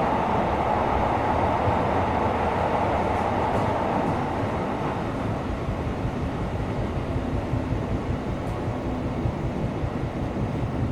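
Tokyo Metro 17000 series subway train running through a tunnel, heard from inside the car: a steady rumble and hiss of wheels and motors. The noise eases about halfway through.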